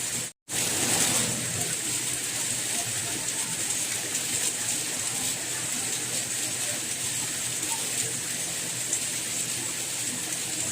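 Steady heavy rain, an even rushing hiss. It cuts out to silence for a split second near the start and comes back slightly louder for a moment.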